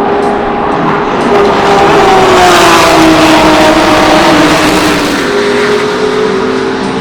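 Race car engine passing at speed. It grows loud about a second and a half in, and its pitch drops as it goes by. Engine sound continues underneath.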